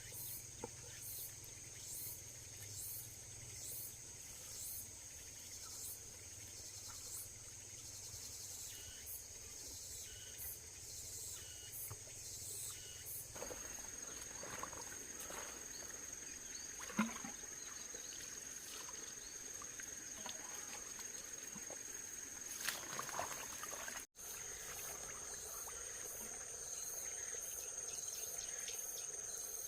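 Insects chirping outdoors: a steady high-pitched drone, with rhythmic pulses about once a second in the first part. There are a few faint knocks around the middle.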